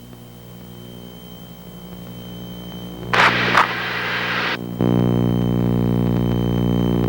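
Radio and intercom audio in a twin-engine Piper Seneca cockpit: a low steady hum that slowly grows louder, a burst of radio static hiss about three seconds in, then a louder steady buzzing hum from about five seconds in as a radio transmission keys up.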